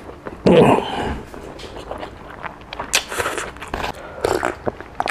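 Close-miked chewing and lip-smacking as a man eats a mouthful of rice and octopus curry by hand, with irregular wet clicks throughout. There is a brief sound from his voice about half a second in.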